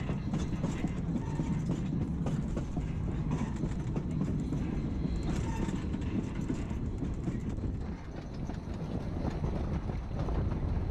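Narrow-gauge passenger train rolling along the track: a steady rumble of wheels on rail, with scattered clicks and clacks from the running gear.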